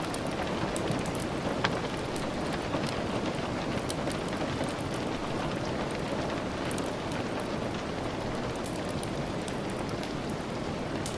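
Steady heavy rain, an even hiss with scattered sharp clicks and pops that fit the crackle of a wood fire in a fireplace.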